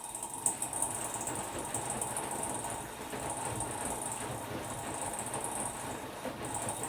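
Hotpoint-Ariston Aqualtis AQD972F washer-dryer running, its drum turning with a steady rumbling hiss.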